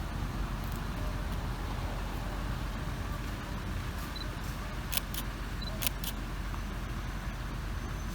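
Steady low rumble of a narrow-gauge sugar-railway train running, with a few short sharp clicks about five and six seconds in.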